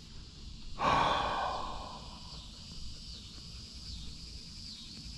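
A sudden rush of sound about a second in that fades away over the next second, over a steady chorus of insects pulsing in high swells.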